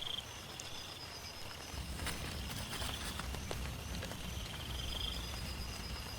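Rain falling on and around a tent, with scattered drops ticking sharply and a low rumble that swells about two seconds in. Short, rapidly pulsed high-pitched calls from a small animal, such as a frog or insect, repeat a few times through the rain.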